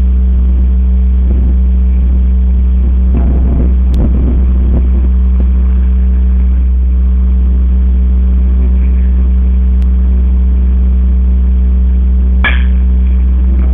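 Loud, steady low hum that does not change, with one sharp knock about twelve and a half seconds in.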